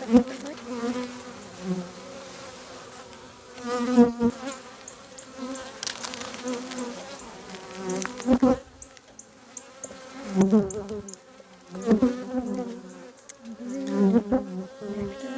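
Honey bees buzzing around an open beehive, a steady hum with a wavering pitch. It swells loudly several times as single bees fly close past the microphone.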